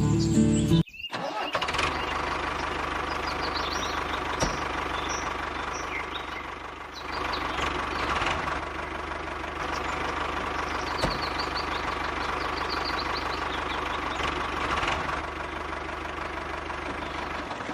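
A motor running steadily with a low hum, a few sharp clicks along the way, and faint bird chirps. Music cuts off about a second in.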